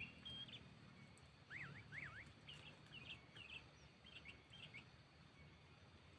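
Sooty-headed bulbul calling faintly: two quick zigzag notes that swing up and down about a second and a half in, then a run of short chirps.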